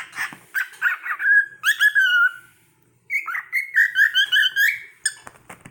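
Pet cockatiel vocalizing in two short, high-pitched chirpy phrases with warbling pitch glides, with a brief pause between them: its whistled attempt at mimicking "uh-oh, peekaboo".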